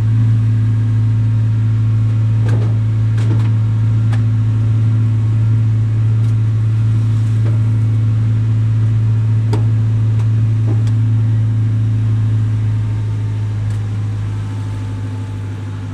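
Excavator's diesel engine running steadily with a strong low hum, loudest through most of the stretch and easing off near the end. A few short sharp knocks sound over it.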